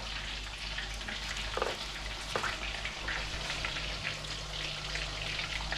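Hot oil sizzling and crackling steadily in a frying pan, with a low steady hum underneath.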